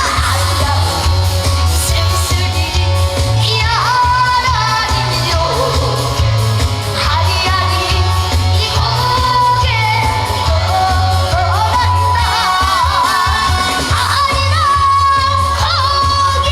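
Live singing over a loud band backing track with a steady bass line. A high voice holds long notes with vibrato and slides between pitches, in trot style.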